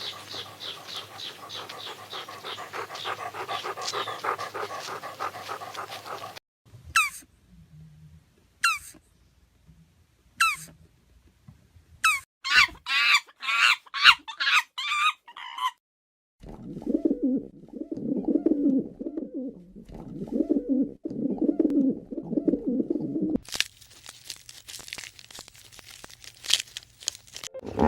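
Small animals calling in a run of separate clips: fast high chirping, then single falling squeaky calls about two seconds apart, a quick burst of falling chirps, and then lower pulsing calls.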